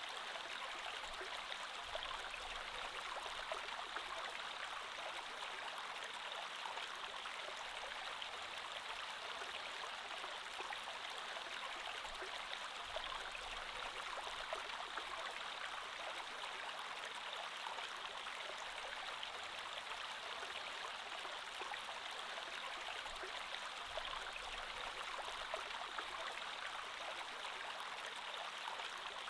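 Creek water flowing and babbling over rocks, a steady rushing with small splashes and gurgles throughout.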